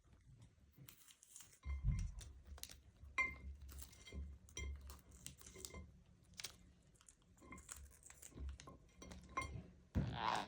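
Irregular light clicks and clinks with a few soft low knocks, scattered through the stretch, the loudest about two seconds in.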